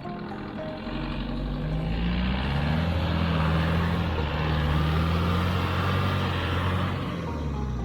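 A motor vehicle's engine running under way. Its pitch climbs over the first couple of seconds and holds while it gets louder, then drops away near the end.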